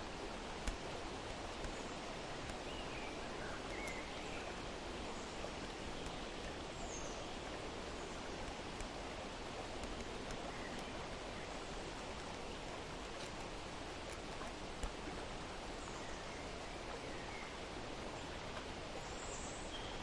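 Steady outdoor nature ambience: an even rushing hiss with faint bird chirps scattered through it, and two small clicks, one about a second in and one near the three-quarter mark.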